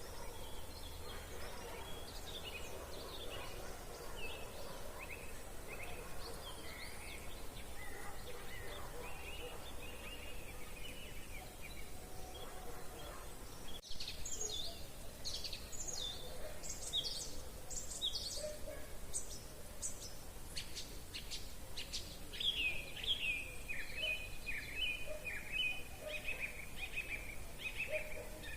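Several songbirds singing: scattered fainter calls at first, then, after a momentary dropout about halfway through, louder rapid chirps and a run of quick repeated notes.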